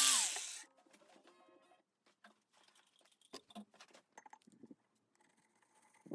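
A small electric motor's whine falls in pitch and winds down to a stop within the first second after being switched off. Faint clicks and light knocks follow.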